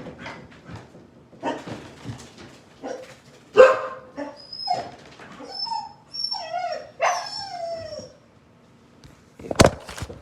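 Dog whining and yelping in short, high, wavering cries, excited at a trapped bird. One sharp knock sounds near the end.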